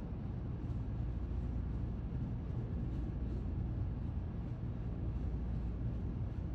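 Steady low rumble with a faint hum underneath, unchanging throughout: outdoor background noise.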